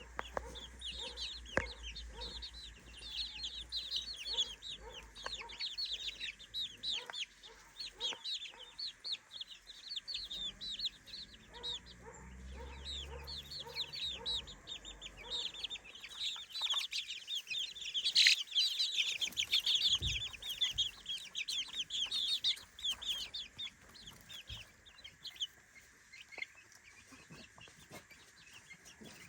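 A flock of three-week-old chicks peeping, many short falling chirps overlapping at a fast rate, thinning out after about twenty-four seconds. A brief bump sounds about eighteen seconds in.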